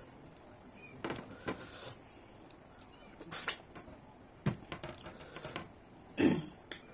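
Eating sounds of chicken curry eaten by hand: wet chewing and lip smacks, coming as irregular short smacks and clicks. The loudest comes about six seconds in.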